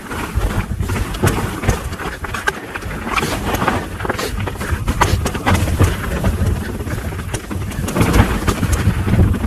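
Mountain bike riding a dirt trail: wind buffeting the microphone as a low rumble, with tyre noise and many short rattles and clicks from the bike over the rough ground.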